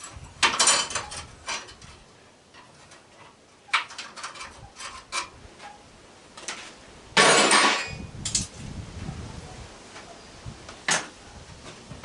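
Metal clinks and clanks of hand tools and sheet-metal parts being handled while an air-conditioner condenser unit is taken apart, with a louder, rougher clatter of metal about seven seconds in.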